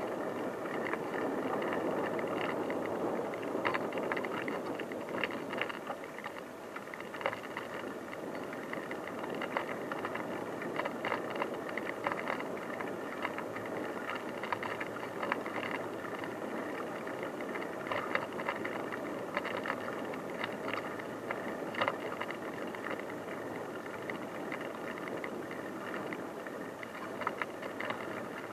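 Bicycle riding over an unpaved track: steady rolling noise from the tyres, with frequent small rattles and knocks from the bike jolting over bumps.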